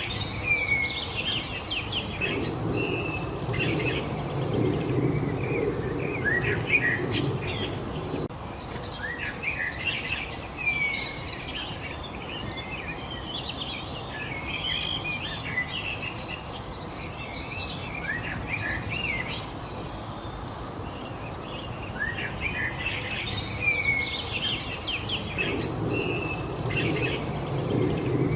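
A chorus of songbirds chirping and trilling in quick, overlapping phrases. Underneath, a low rumble swells twice: for several seconds near the start, and again near the end.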